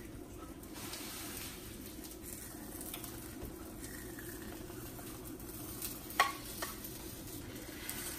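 Spinach and tomato frying in a frying pan, sizzling steadily while a spatula stirs them, with a few short sharp clicks of the spatula against the pan about six seconds in.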